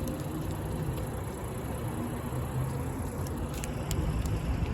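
Car engine and tyres running at low speed, a steady low rumble as the car rolls into the wash bay, with a few faint ticks about three to four seconds in.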